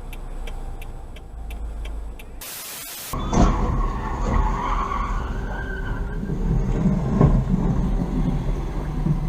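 Low road rumble from a car, broken by a short burst of hiss, then a louder stretch of car noise with tyres skidding and a couple of sharp knocks.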